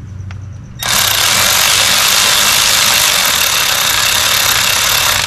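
3/8-inch cordless ratchet running, backing out the starter's lower mounting bolt. It starts about a second in, runs steadily for about four seconds and cuts off suddenly.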